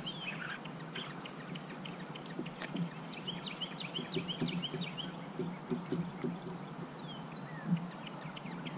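Wild birds singing: a run of short, high, rising chirps, about three a second, that stops and starts again near the end, with a lower, quicker chirping series from another bird in between. A steady low hum runs underneath.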